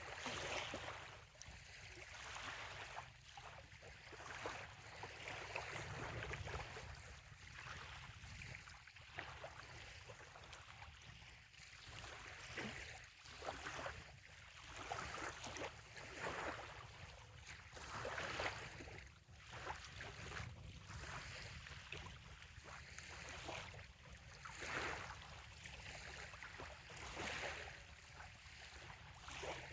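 Small, gentle waves lapping on a sandy bay shoreline: a soft wash of water that swells and fades every few seconds over a steady low rumble.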